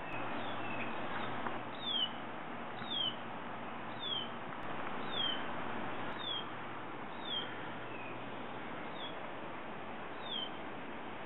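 A small bird calling with short, high, falling chirps, repeated over and over at about one a second, over a faint steady background hiss.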